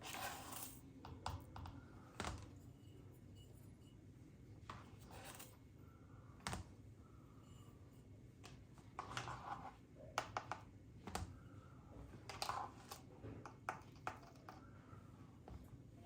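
Quiet handling sounds: scattered light clicks and taps of small objects being set down and moved, with a few brief rustles.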